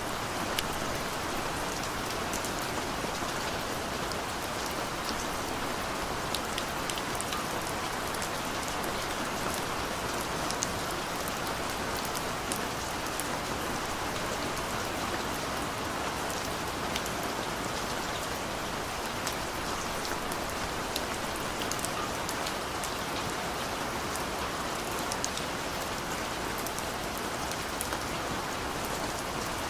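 Steady rain falling, with many small scattered drop hits. It holds at an even level.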